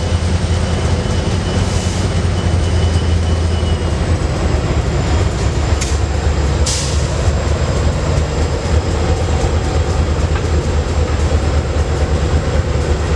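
Freight train rolling past, a steady heavy rumble of wheels on rail with a couple of sharp clicks about six seconds in.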